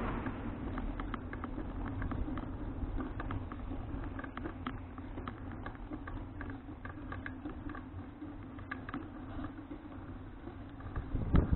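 Folding bicycle riding along: a steady low rumble of tyres and wind with scattered small clicks and rattles from the bike, and a louder bump near the end.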